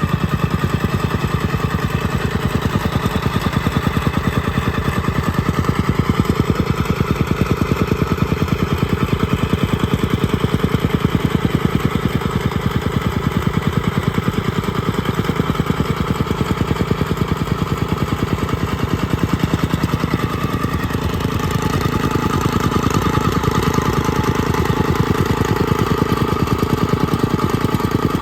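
Engine of a homemade compactor running steadily, with a fast, even pulsing.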